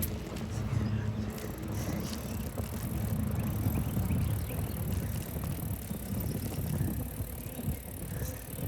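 Bicycle riding on a road: steady rumble of the tyres and wind buffeting the microphone, with a few light clicks.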